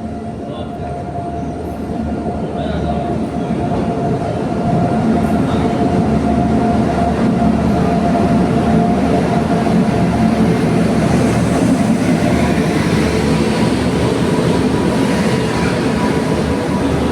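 Train running on the rails, growing louder over the first few seconds and then holding steady, with a faint steady whine over the rumble.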